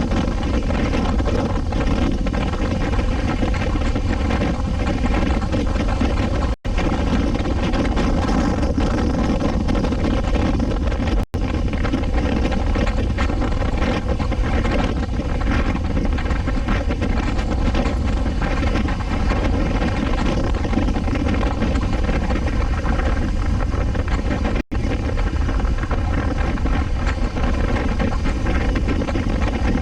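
Suzuki V-Strom 250 SX motorcycle's single-cylinder engine running steadily at cruising speed, with wind rushing over the microphone. The sound cuts out for an instant three times.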